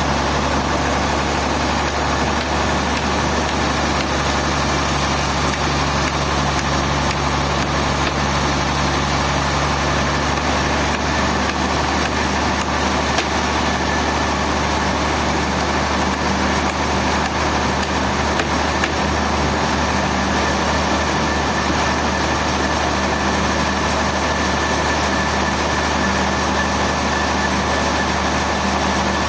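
Sawmill machinery running steadily: a constant low engine hum with mechanical noise over it, with no pauses or sharp impacts. About ten seconds in, part of the low hum drops away while the rest runs on.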